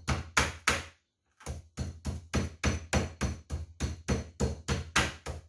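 Raw chicken fillets being pounded flat through their plastic wrapping: repeated sharp blows at about three a second, with a short pause about a second in.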